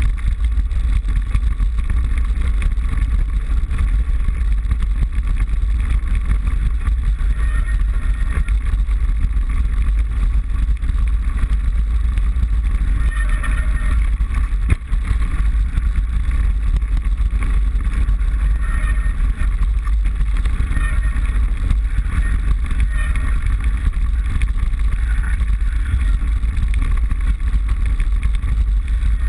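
Mountain bike being ridden, heard through a handlebar-mounted GoPro: steady wind rumble on the microphone mixed with dense rattling vibration from the bike and camera mount.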